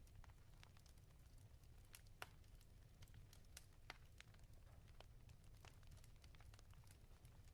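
Wood fire crackling in a fireplace: faint, irregular pops and snaps over a low steady rumble, with two sharper pops about two and four seconds in.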